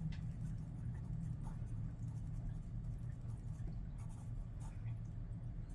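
Graphite pencil scratching on paper in short, scattered strokes, over a steady low hum.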